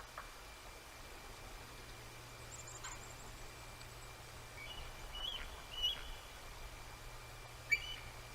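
A few short bird calls: a brief high trill, then a cluster of chirps past the middle and one sharp call near the end, over a faint steady hum and outdoor hiss.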